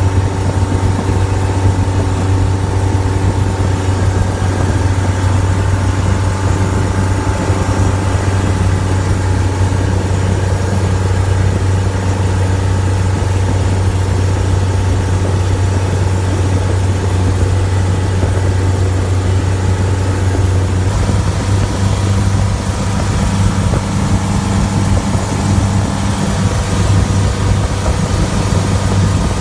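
A boat's engine running steadily with a deep, even hum; about two-thirds of the way through, its note shifts and a higher tone comes up.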